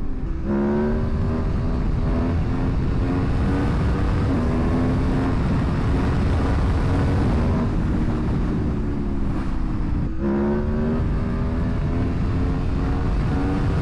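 Aprilia Tuono motorcycle engine pulling steadily under way, over heavy low wind rumble. Its pitch climbs gradually, steps down a little about four seconds in, dips sharply at a gear change near ten seconds, then climbs again.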